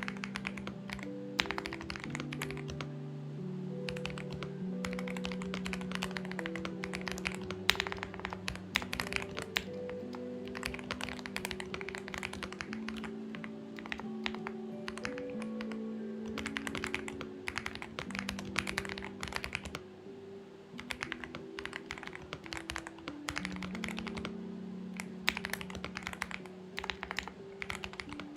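Typing on a Xinmeng X98 mechanical keyboard: runs of quick keystroke clicks with short pauses, easing off briefly about two-thirds through. Background music of held low notes plays alongside.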